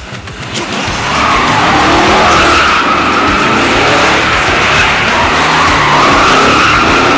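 Car tyres squealing in a long, sustained skid, starting about a second in, the squeal's pitch wavering up and down.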